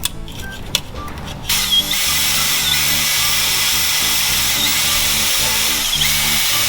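A few light metal clinks of tools, then about a second and a half in a power tool starts and runs steadily with a dense, hissing grind, cleaning old gasket material off the engine's fuel pump mounting surface.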